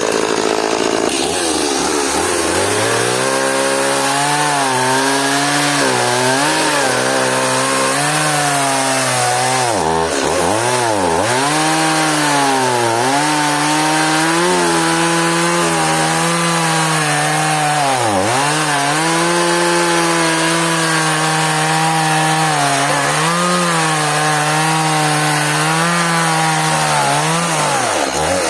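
Stihl MS180 two-stroke chainsaw cutting hard elm. Its engine pitch drops as the chain bites into the wood about a second in, sags repeatedly under the load of the cut, and climbs again near the end as the saw frees up.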